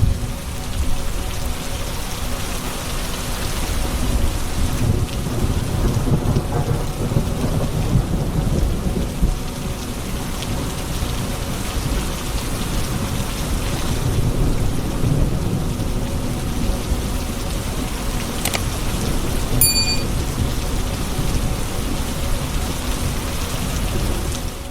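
Steady heavy rain with rolling thunder, the deep rumbles swelling twice. A short sharp click and a brief high beep sound about three quarters of the way through.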